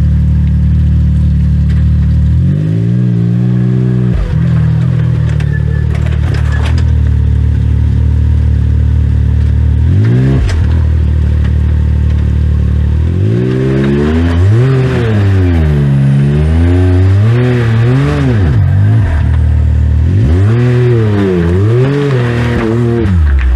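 Side-by-side UTV engine running at a steady drone, then revved up and down in repeated surges from a little past halfway.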